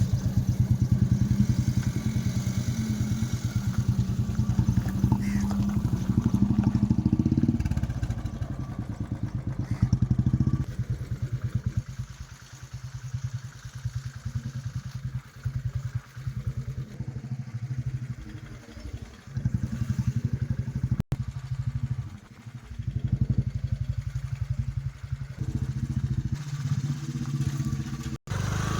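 A small engine running with a fast, even pulse, louder for roughly the first ten seconds and quieter after.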